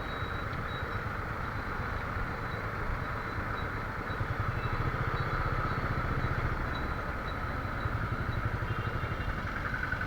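Motorcycle engine running while riding, with a fast low pulsing that gets louder from about four seconds in, over road and traffic noise.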